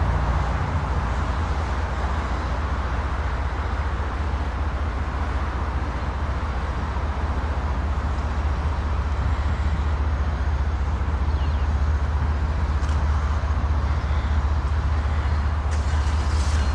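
Diesel-electric freight locomotives running with a steady low rumble as the train approaches.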